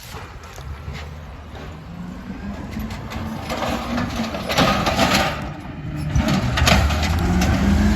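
Compost collection truck's engine running, with a hissing stretch around the middle and the engine growing louder near the end.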